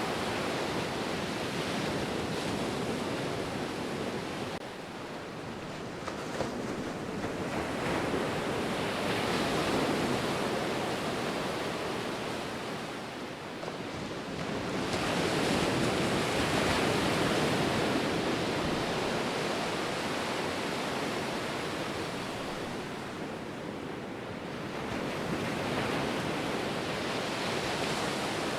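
Ocean waves breaking and washing on the shore, a steady rush of surf that swells and ebbs, with three louder surges several seconds apart.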